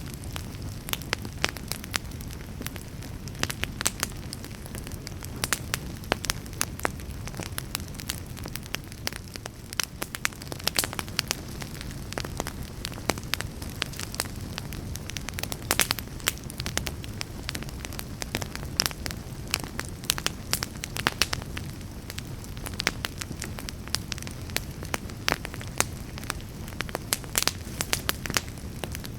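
Fire burning in a fireplace: a steady low rumble of flames with frequent, irregular crackles and sharp pops.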